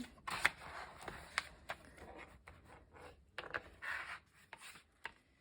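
Paper and stationery being handled on a desk: short scratchy rubbing strokes with several sharp clicks, dying away near the end.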